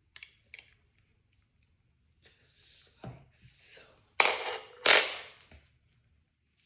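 Hand work on a mini drag bike's front end: two light clicks, a knock about three seconds in, then two loud sharp bangs about 0.7 s apart that ring off briefly.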